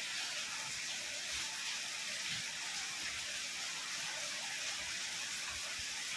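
Steady hiss of food sizzling in a hot pan.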